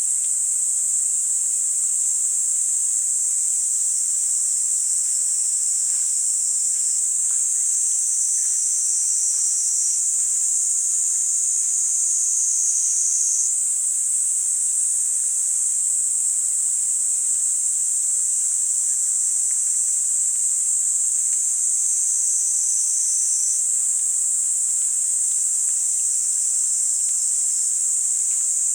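Kaempfer cicadas (niinii-zemi) singing a steady, unbroken, high-pitched buzz. A slightly lower second buzz joins in twice and drops out again.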